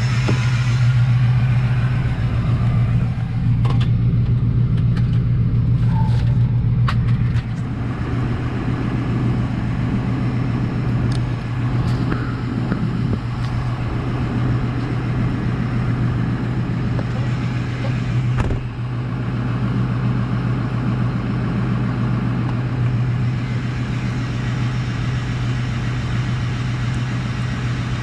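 Plow truck's engine running steadily with a low hum. A few clicks and knocks come a few seconds in, and the level drops slightly about seven seconds in.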